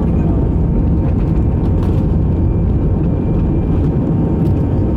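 Steady, loud rumble of an Airbus A318 airliner heard from inside the passenger cabin: engine and airflow noise with a faint steady whine.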